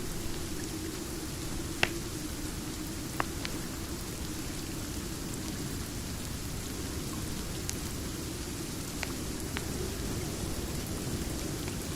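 Steady rain with a mix of wood-fire crackle, with a few isolated sharp pops, the loudest about two and three seconds in.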